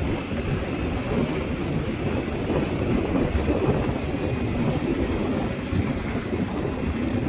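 Steady low rumble of wind buffeting the microphone on a moving motorbike, with the ride's road and engine noise beneath it.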